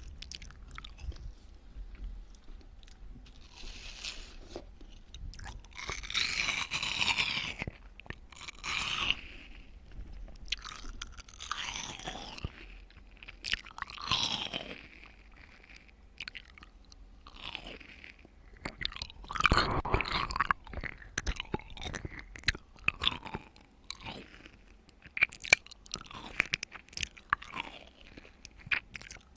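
Close-miked wet chewing and crunching of watermelon, with irregular juicy mouth sounds and smacks. The loudest bites come twice, some seconds apart.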